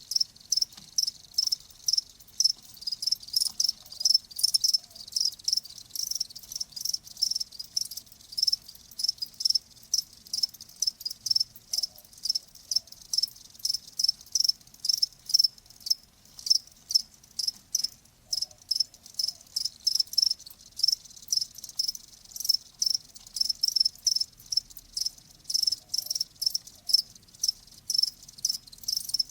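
Cricket chirping: short, high chirps repeating steadily two to three times a second.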